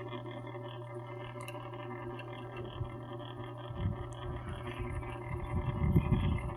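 Mini ceiling fans running, a steady electric motor hum with several fixed tones. From about four seconds in, an irregular low rumbling joins it and grows louder.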